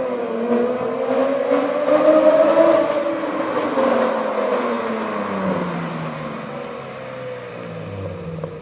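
A BMW E46 coupe's straight-six engine, running through a straight-piped exhaust with a header and no catalytic converter, passing by under throttle. It is loudest about two to three seconds in, then drops in pitch and fades as the car pulls away.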